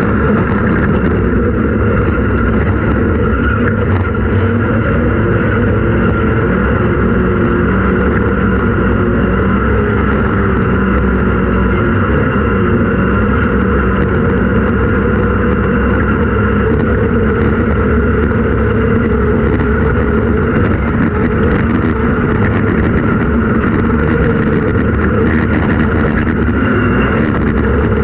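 Off-road race vehicle's engine running hard and steadily at speed, with no let-up in level.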